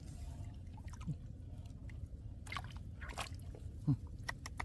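Hands groping in wet mud and shallow water, squelching and sloshing, with scattered small splashes and drips, and a brief low falling sound about four seconds in.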